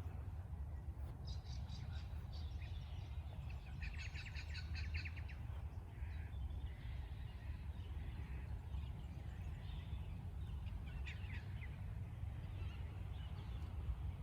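Birds chirping in short rapid trills of evenly spaced notes, the loudest about four seconds in and another near eleven seconds, over a steady low rumble.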